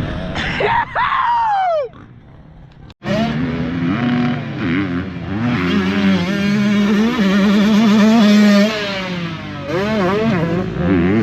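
Motocross dirt bike engines revving hard on the track, the pitch climbing and falling steeply with the throttle. The sound cuts out abruptly about three seconds in, then an engine runs on with quick rises and falls in revs.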